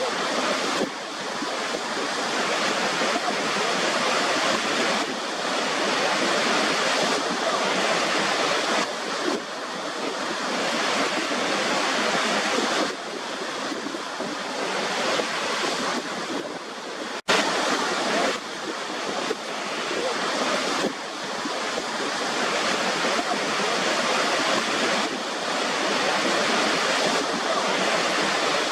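Waterfall rushing: a steady, dense hiss of falling water that swells and eases slightly, with an instant dropout in the sound a little over halfway through.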